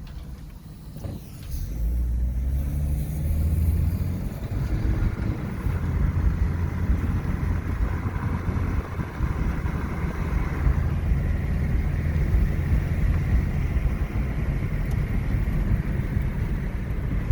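Car driving on snowy roads, with a steady engine and tyre rumble. About two seconds in it gets louder and the engine note rises as the car speeds up.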